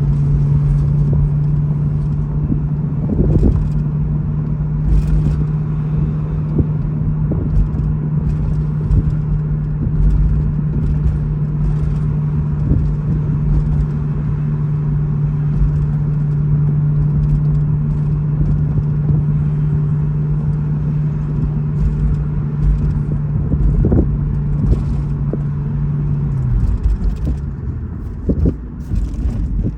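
2012 BMW E93 M3's V8 running with a steady drone over low road rumble while driving, with short metallic rattles from underneath the car as it goes over bumps and road joints. About three-quarters of the way through, the engine note drops.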